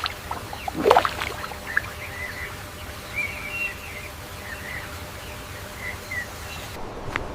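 Outdoor nature ambience with scattered short bird chirps over a steady background, and one brief louder rushing sound about a second in.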